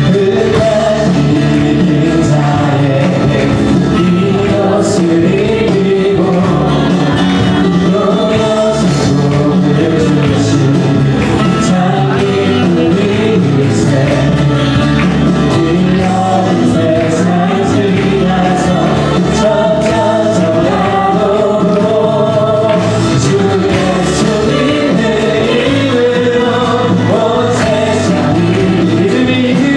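Christian worship music: several voices singing a melody together over a band, with a steady beat of cymbal or drum strokes.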